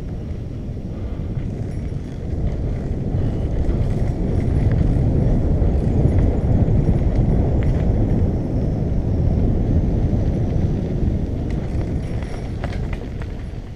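Wind rumbling over the microphone of a camera carried on a moving bicycle. It swells about two seconds in, stays loud through the middle and eases near the end.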